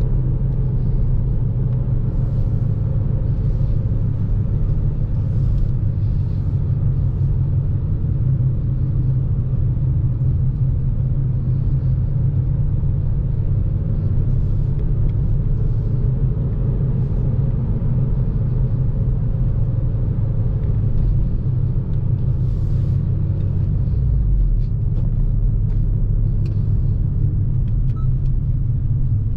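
2014 Honda Civic Si's 2.4-litre four-cylinder engine and tyre noise while driving: a steady low rumble.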